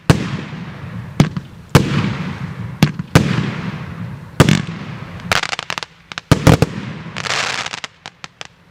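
A 36-shot firework cake of 1.2-inch tubes firing: about ten sharp bangs, one every half second to second, each trailed by a fading hiss. A longer hissing burst comes about seven seconds in, followed by a few small pops.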